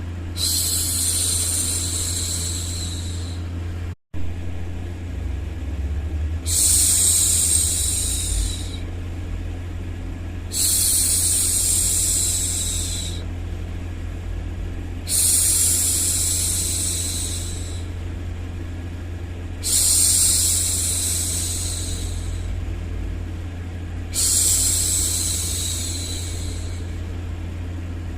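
A woman's voice shushing a baby, 'shhh', six long hushes of about two and a half seconds each, one roughly every four and a half seconds, over a steady low hum. The sound cuts out for a split second about four seconds in.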